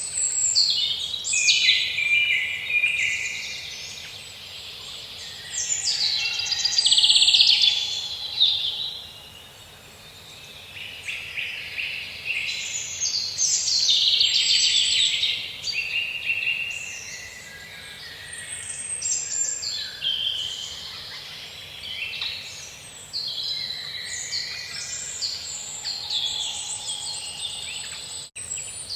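Songbirds singing in overlapping bouts of chirps and trills that swell and fade every few seconds, over a faint steady hiss of forest ambience. A brief gap cuts through the sound near the end.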